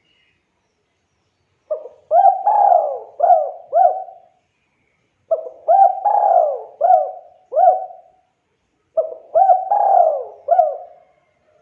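Spotted dove (tekukur) singing: three cooing phrases a few seconds apart, each a quick run of about five rising-and-falling coos.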